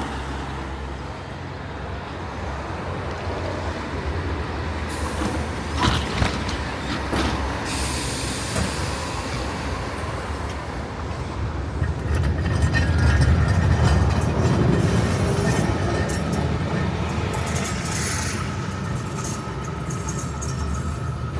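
Narrow-gauge tram-train running along the track: a low rumble that grows louder about twelve seconds in, with a couple of sharp clicks about six seconds in and a faint steady whine over the louder stretch.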